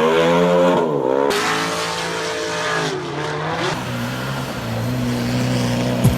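Car engine accelerating hard, its pitch climbing and then dropping sharply about a second in at a gear change, rising and falling again, and settling to a steady note near the end.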